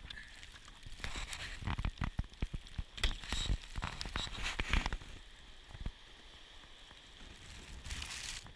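Blizzard wind buffeting the microphone: gusty rumbling and crackling, heaviest for the first five seconds or so, then easing to a steadier hiss with one more gust near the end.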